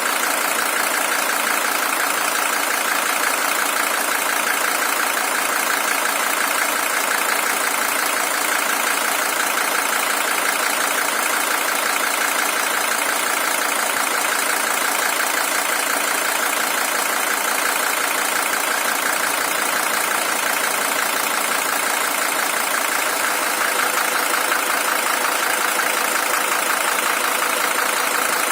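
Mercedes-Benz OM617 five-cylinder diesel engine idling steadily. It is a high-mileage original engine with 620,000 km.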